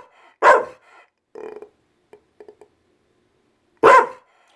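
American Pit Bull Terrier giving two short, loud barks about three seconds apart, with a few quiet grumbling sounds between them: demand barking for more treats.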